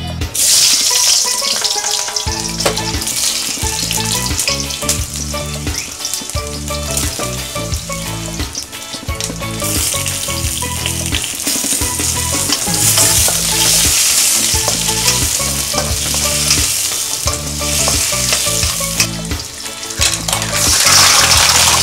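Red onion, ginger and tomato frying in hot oil in a stainless steel wok: a dense, steady sizzle that starts abruptly just after the start and swells around the middle and again near the end.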